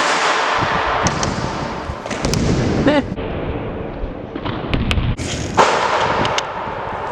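BMX bike riding on skatepark ramps: tyres rolling with a steady rushing noise, broken by several sharp knocks and clacks of the bike landing and striking the ramps.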